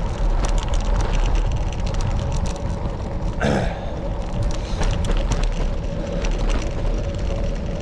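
Wind buffeting the microphone with a rough, crackling rumble, over a steady engine hum from a large vehicle on the narrow lane.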